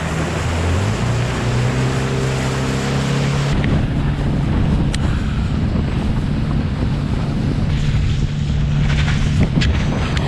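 Boat's outboard motor running at a steady pitch, which steps up briefly near the start, with wind buffeting the microphone.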